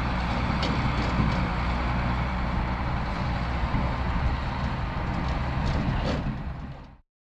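Ford 8630 tractor's diesel engine running steadily under load, driving a Mengele SH40N forage harvester, with a few faint clicks. The sound fades away near the end into silence.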